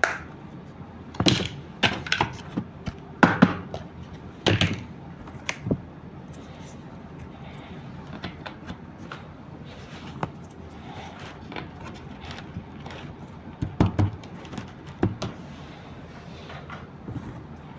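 Hard plastic toy pieces clicking and knocking as they are handled: a series of sharp clacks, loudest in the first six seconds and again around fourteen seconds in, with lighter ticks between.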